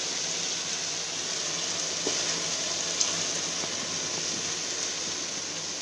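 Chicken pieces sizzling steadily in hot oil and spices in a pot, with a couple of faint light clicks about two and three seconds in.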